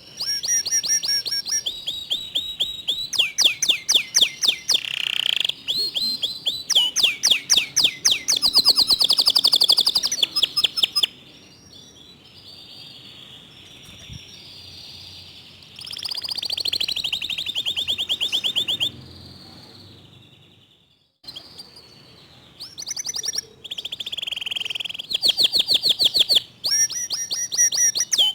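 Domestic canary singing in fast, tightly packed rapid-fire trills of repeated high notes. Its song comes in bursts, with a quieter stretch about eleven seconds in and a brief silent gap about twenty seconds in.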